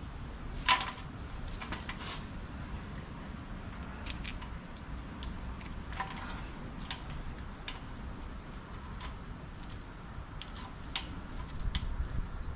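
Scattered metallic clicks and clinks of hand tools and bolts being handled while working on an engine, the loudest about a second in.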